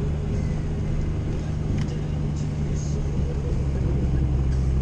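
Old Jeep heard from inside the cab, its engine and tyres making a steady low drone while it drives slowly on a snow-covered road, with a few faint clicks in the middle.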